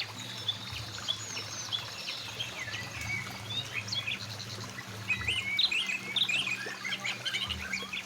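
Several songbirds chirping and singing in quick, varied calls, busier in the second half, over the steady rush of a mountain river.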